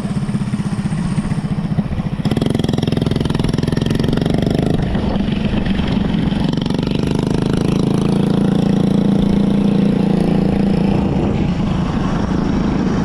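Riding noise from a Sur-Ron Light Bee X electric dirt bike on the move: a steady rush of wind over the microphone mixed with the hum of the motor and drivetrain, with no engine note.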